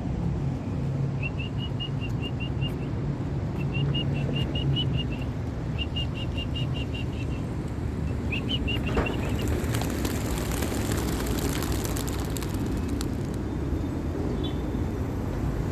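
A flock of young racing pigeons flying up from the release basket, their wings clattering for about four seconds starting near ten seconds in. Before that, a small songbird repeats short, quick chirping trills four times, over a steady low rumble.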